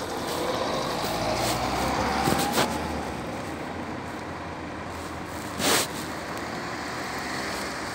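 Road traffic: a motor vehicle passing, its low rumble swelling over the first three seconds with an engine note rising in pitch, then settling into a steady traffic hum. Short sharp noises come about two and a half seconds in and again near six seconds.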